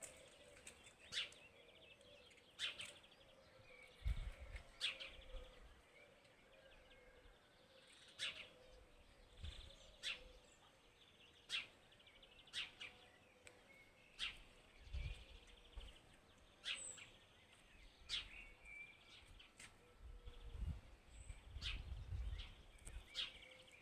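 Birds calling outdoors: short sharp chirps repeated roughly every second, with a few low rumbles in between.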